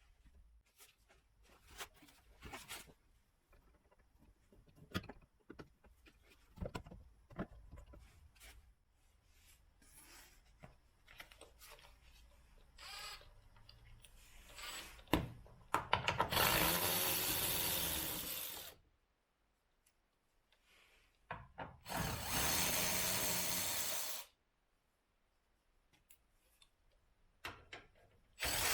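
Makita impact wrench running in two bursts of about two and a half and two seconds, after a stretch of scattered clicks and clinks of tools being handled.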